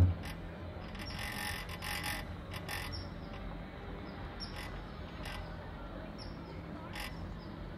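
Small birds chirping, with short high chirps repeating irregularly over a faint steady background. A few brief bursts of hiss come about one to three seconds in and again near the end.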